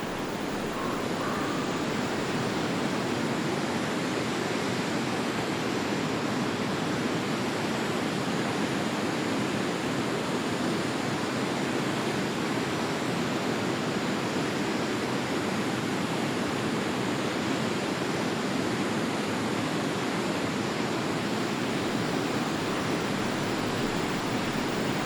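Forest stream flowing with a steady, even rush of water.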